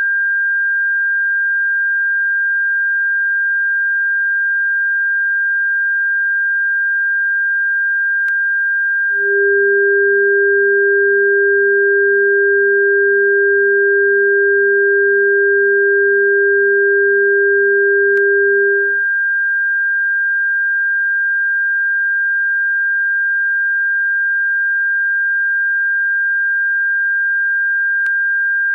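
Electronic sine tone sold as a bird-repellent frequency: a steady high-pitched tone, joined about nine seconds in by a second, lower steady tone that lasts about nine seconds and then cuts off.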